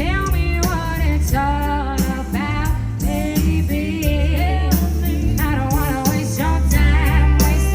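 A woman singing live over an amplified backing track with heavy bass and a steady beat, heard through the PA.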